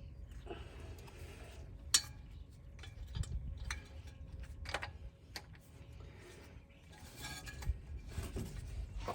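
Hand tools clinking and knocking against metal parts during engine removal work: scattered sharp metallic clinks, the loudest about two seconds in, over a low steady rumble.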